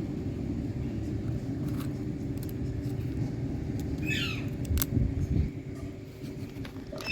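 Rose-ringed (Indian green ringneck) parakeet giving one short screech that falls steeply in pitch, about four seconds in, followed by a sharp click. A steady low rumble runs underneath.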